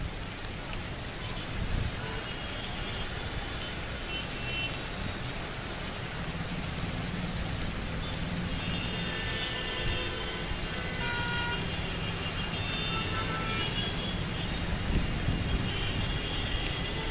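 Steady rain hiss with a low rumble beneath it. Short high tones come and go over it, mostly in the second half.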